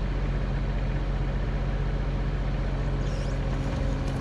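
Mini excavator engine running steadily at constant speed, with a few faint metallic clicks near the end.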